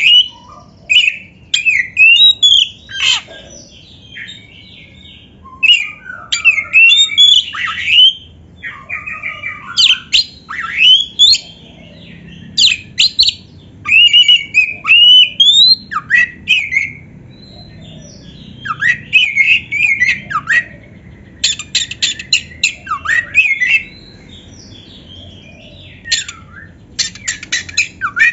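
Oriental magpie-robin singing: loud bursts of varied whistled phrases that rise and fall, mixed with harsh scratchy notes and short gaps between the phrases. There are fast ticking rattles about two-thirds of the way in and again near the end.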